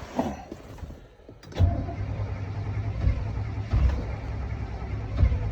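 Cold start of a 1976 Chevrolet 454 big-block V8 in about minus 30 °C: the engine is cranked and fires, coming in suddenly about a second and a half in as a steady low drone with occasional louder kicks.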